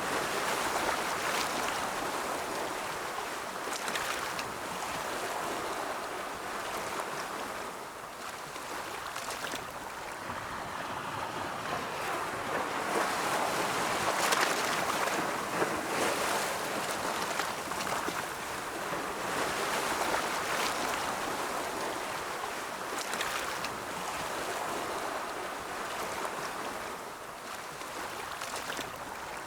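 Ocean surf rolling in: a continuous rushing wash of waves that swells and ebbs slowly, loudest around the middle.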